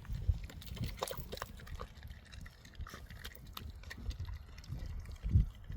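Puppies chewing and smacking on pieces of blanched sea cucumber: irregular wet chewing clicks with low thumps, one louder thump near the end.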